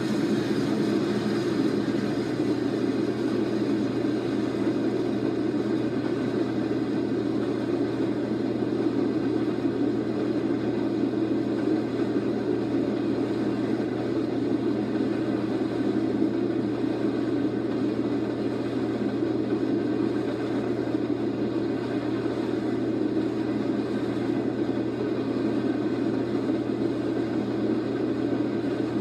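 BNSF freight train passing with a steady, unbroken rumble.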